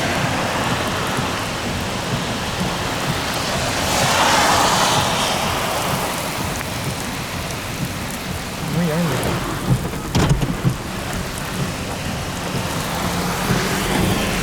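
Heavy rain and gusting wind of a supercell's rear-flank downdraft, swelling about four seconds in, with a few sharp knocks about ten seconds in.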